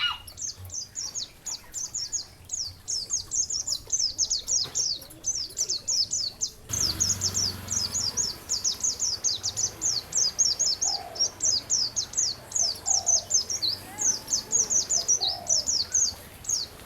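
A songbird singing a continuous rapid run of high, downward-sliding chirps. About a third of the way in, a steady rush of flowing water starts beneath the song.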